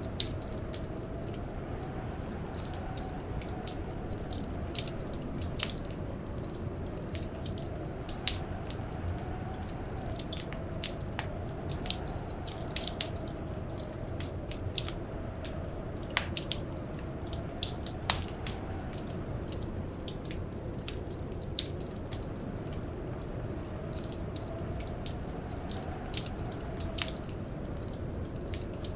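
Wood fire crackling in a fireplace: irregular sharp pops and snaps, several a second, over a steady low rush with a faint wavering hum.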